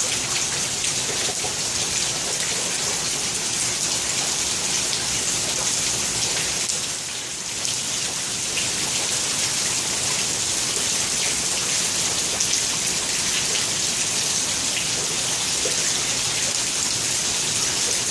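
Heavy rain falling steadily, an even hiss of drops on hard surfaces, dipping briefly about seven seconds in.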